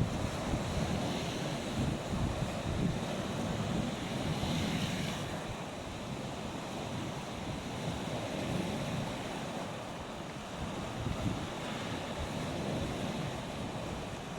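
Black Sea waves washing onto a beach, with wind buffeting the microphone; a wave breaks with a brighter hiss about four to five seconds in.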